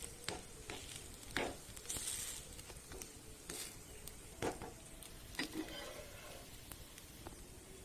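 Obbattu, a sweet chana-dal-stuffed flatbread, sizzling faintly in oil on a hot dosa tawa as its second side cooks, with a few light clicks.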